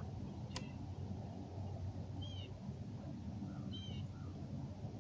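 Two short bird calls, about a second and a half apart, over a steady low background rumble. A sharp click comes about half a second in.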